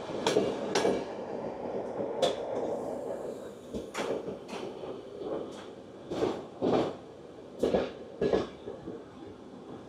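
Irregular knocks and clunks, about eight in all, some sharp and some duller, over a steady low rumble, from a passenger train standing at a station.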